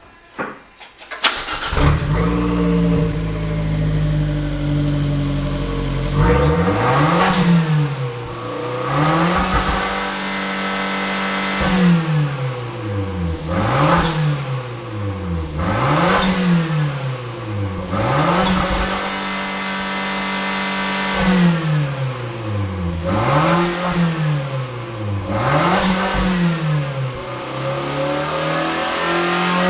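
Fiat 500 Abarth 1.4-litre turbocharged four-cylinder engine, running with no muffler (only a turbocharger, catalytic converter and a Y-pipe to two stainless tips), cranks and starts about a second in. It runs at a fast idle, is then blipped up and down about ten times, and settles back to idle near the end.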